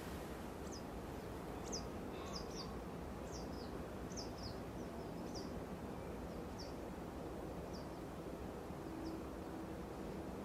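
Small bird giving about a dozen short, thin, high calls, each sliding down in pitch, coming more often in the first half and spacing out toward the end, over a steady low background rumble.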